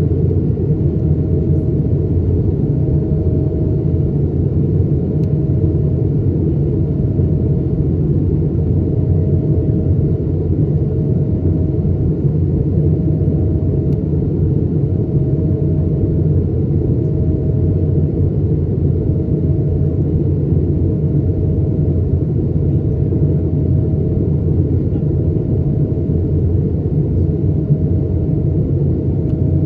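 Steady cabin roar of an Airbus A220-300 in flight: Pratt & Whitney PW1500G geared turbofan engines and airflow make a deep, even rumble. A faint tone pulses over it roughly every two seconds.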